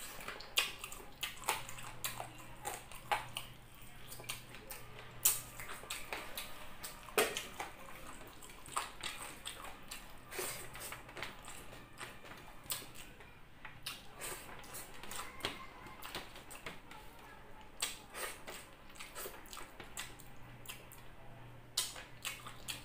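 Close-miked mukbang eating by hand: wet chewing and lip smacking on spiced masala chicken and rice, with many sharp, irregular mouth smacks and clicks.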